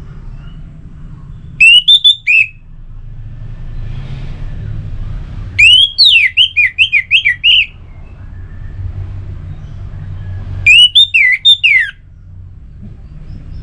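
Orange-headed thrush singing three short phrases of quick, sweeping whistled notes, with pauses of a few seconds between them, over a steady low rumble.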